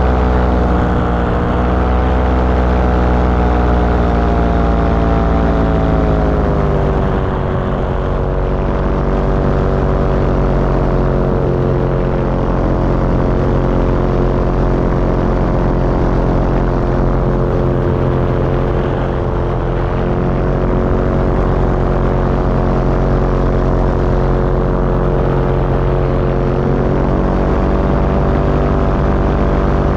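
Engine and propeller of a small powered aircraft running steadily in flight, close to the microphone. Its pitch drops about six to seven seconds in, then holds, rising slightly near the end.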